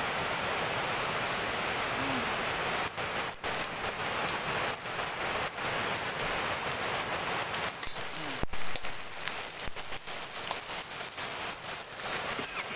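Fermented ensabi leaves (kasam ensabi) frying in hot oil in a pan. The sizzle is steady at first and turns into an uneven crackle from about three seconds in.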